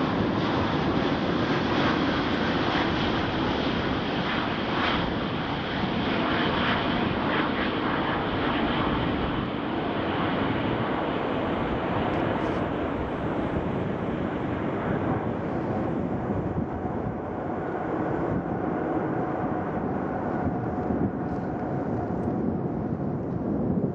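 Jet airliner engines running loud and steady, the high hiss fading over the second half while a faint steady whine shows through.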